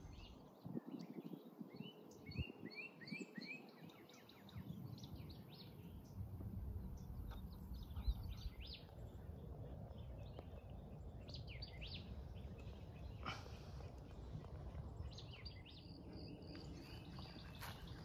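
Several wild birds calling and singing around a marsh, quiet overall, with a quick run of short chirping notes in the first few seconds and more chirps near the end. A single sharp tick comes about eight seconds in, over a low steady rumble.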